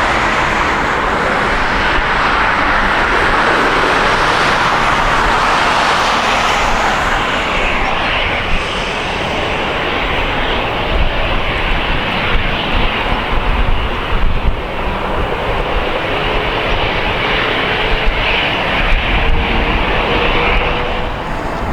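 Jet airliner engines running loud as a plane passes close by, a dense steady rush of jet noise, with a faint rising whine in the last few seconds.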